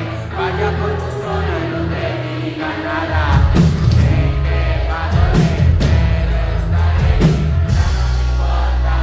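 Live concert music: a singer's voice over the band, with bass and drums coming in hard about three seconds in and the music getting louder.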